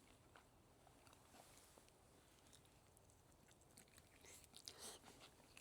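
Near silence with faint scattered clicks, and a brief rustle or crunch near the end.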